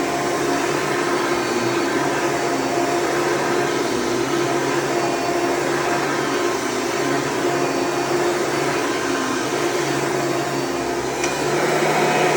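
1998 Hoover Preferred upright vacuum cleaner running steadily: a loud, even motor hum and air rush whose pitch shifts slightly now and then.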